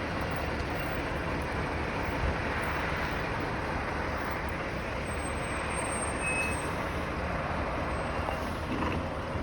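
A large road vehicle's engine running steadily, with road and traffic noise.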